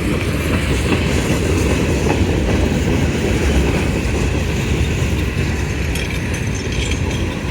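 Long CSX freight train rolling past: a steady, unbroken rumble of railcars on the rails.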